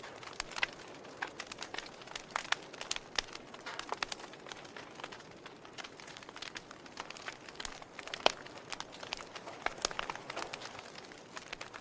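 Fire burning and crackling: a soft steady hiss with many irregular sharp pops, one louder pop about eight seconds in.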